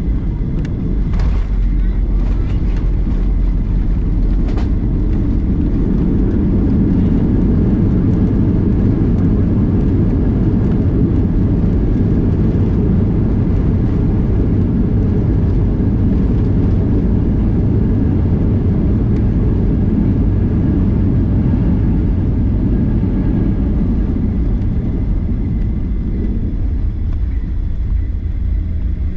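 Cabin noise of a Boeing 737-900ER landing roll. There are a few sharp knocks in the first seconds, then a loud, steady deep rumble of engines and runway that eases off near the end as the aircraft slows.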